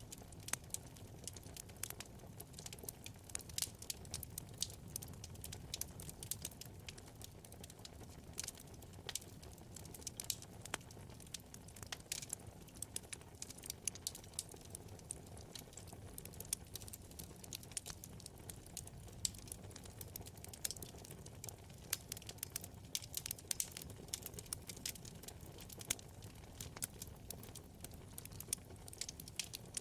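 Wood fire burning in a fireplace: a low steady rumble of flames with frequent irregular sharp crackles and pops from the burning wood.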